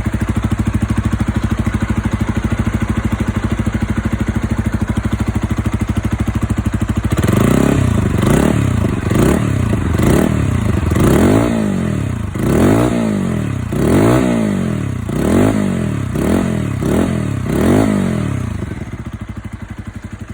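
Zontes ZT 125 motorcycle's 125 cc engine through an aftermarket AliExpress exhaust, idling steadily, then revved in about ten quick blips that rise and fall in pitch, before settling back to idle near the end.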